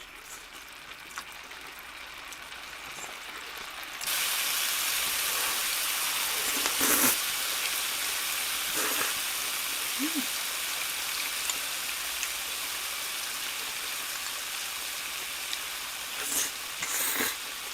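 A steady sizzling hiss that starts suddenly about four seconds in and slowly fades, with a few brief clicks and knocks over it.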